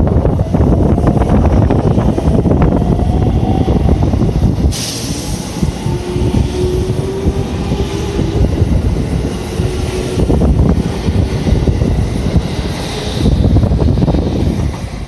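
JR Central 313 series electric train, two sets coupled, passing along the platform at speed. The wheels rumble and click over the rail joints, with a thin steady whine underneath and a hiss that sets in suddenly about a third of the way through. The sound falls away as the last car goes by at the end.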